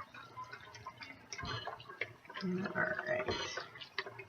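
Chicken broth being poured from a carton into a pressure cooker, with small clicks and splashing of liquid.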